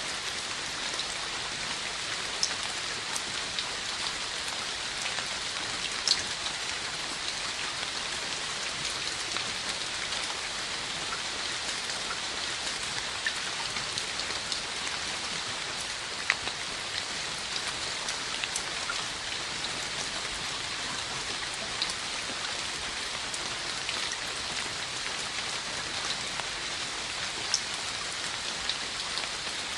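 Steady rain falling, an even hiss with scattered sharper ticks of individual drops striking close by.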